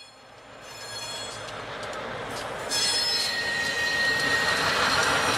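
CSX diesel freight locomotives rolling past, their wheels squealing in several high, steady tones on the rails. The sound builds and steps up louder about three seconds in as the lead unit comes by.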